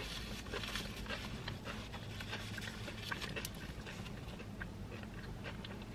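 Quiet chewing with soft, scattered mouth clicks over a low steady hum.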